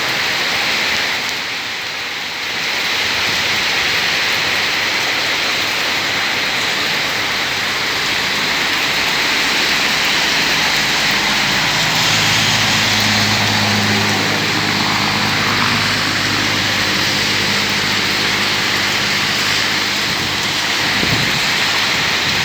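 Heavy rain falling steadily, a dense hiss. About halfway through, a low steady hum joins it for several seconds.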